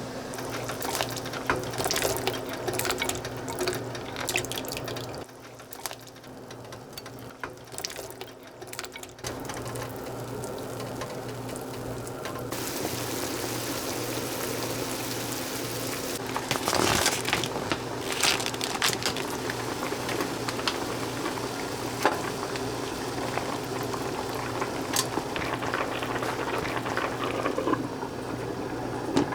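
Water pouring and splashing in a kitchen, with a few short clicks and knocks, over a steady low hum.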